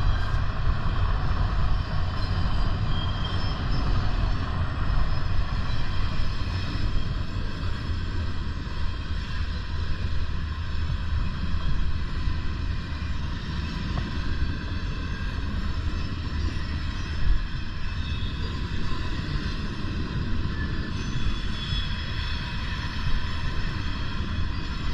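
Steady rumble of wind on the microphone of a moving bicycle, heaviest in the low end and rising and falling in strength.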